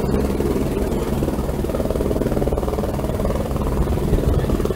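Helicopter's turbine and rotor running loudly and steadily, as it readies for take-off.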